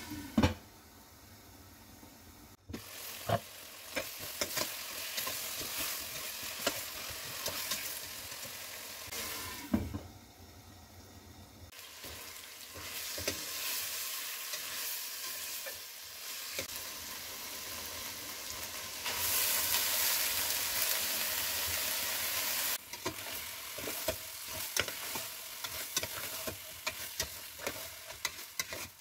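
Vegetables, then rice and lentils, sizzling in oil in a stainless steel pot while a metal slotted spatula stirs and scrapes against the pot. A glass lid clanks down onto the pot just after the start, and the frying hiss is loudest about two-thirds of the way through.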